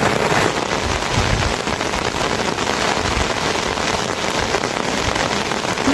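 Steady, dense rain falling and pattering on surfaces.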